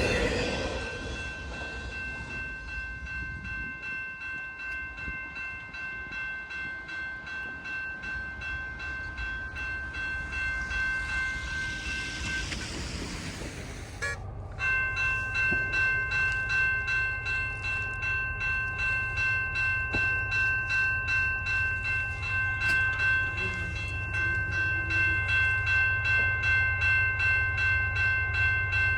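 Freight train cars rolling past with a steady rumble, rapid rhythmic clicking of wheels and a steady high-pitched ringing tone. About halfway through the sound breaks off abruptly and a second, louder passing freight train picks up with the same ringing and clicking.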